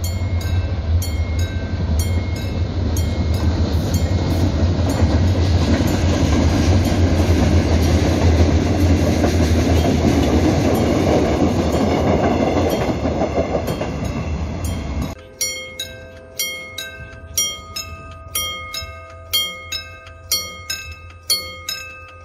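A Mugunghwa passenger train, diesel-hauled, passes close by with a loud, steady rumble and rail noise that builds to a peak midway. About 15 seconds in the train sound cuts off suddenly, leaving plucked-string music.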